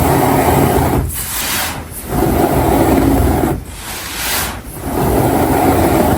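Loose baking soda powder being rubbed and pressed by hand close to the microphone, in about five grainy strokes a second or so apart.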